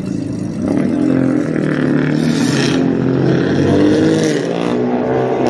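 A car engine revving and accelerating, its pitch climbing near the end.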